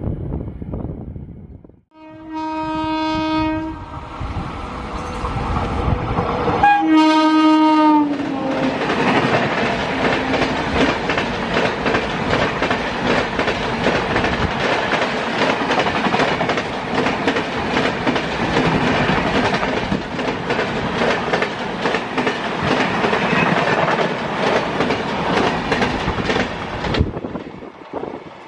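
WAP-7 electric locomotive horn sounding two steady blasts, the second dropping in pitch at its end as the locomotive passes. Then the passenger coaches of an express train run past for about twenty seconds, wheels clattering over the rail joints, before the sound cuts off as the last coach clears.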